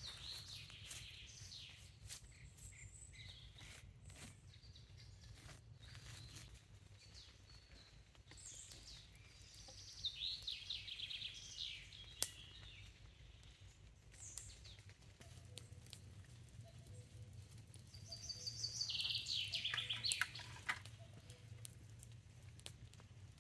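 Songbirds singing in woodland: several short trilling song phrases, about ten seconds in and again, loudest, around nineteen seconds in, over scattered light clicks and knocks.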